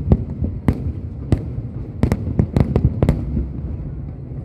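Fireworks bursting: a quick string of about ten sharp cracks, several coming close together around the middle, over a steady low rumble.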